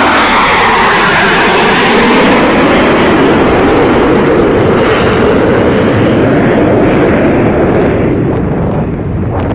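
Blue Angels F/A-18 Super Hornet jets flying past, a loud, steady jet engine roar whose hiss eases off near the end as they move away.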